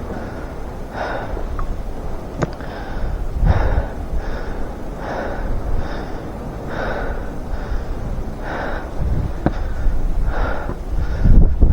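A climber breathing hard and rhythmically close to the microphone, a breath about every second, while strong mountain wind rumbles on the microphone.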